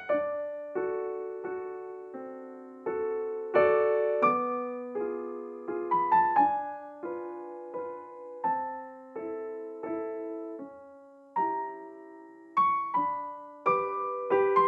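Background music: a gentle melody on a piano or electric piano, with single notes and chords struck and left to fade, about one or two new notes a second.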